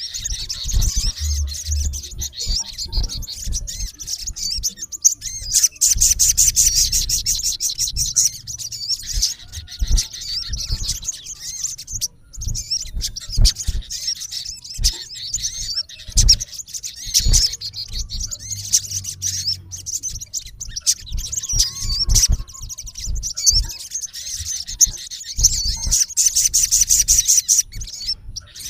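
Male olive-backed sunbird calling at a rival: a continuous stream of high-pitched chirps and twitters, breaking into fast rattling trills about six seconds in and again near the end. Short low knocks come through now and then.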